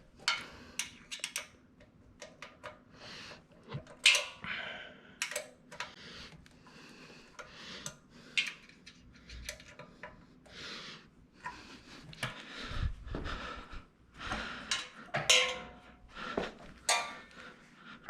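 Irregular clinks, clatters and knocks of metal stand parts being handled and wiggled into place, with a duller low thump about two-thirds of the way through.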